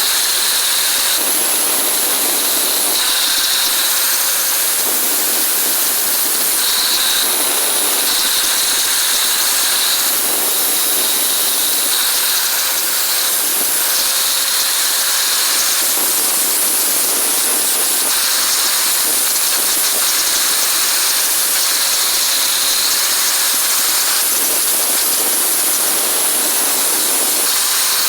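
A loud, steady hissing noise whose texture shifts every second or two.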